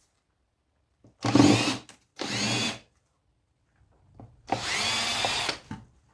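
Cordless drill/driver running in three short bursts, undoing screws from scrap electronics casings.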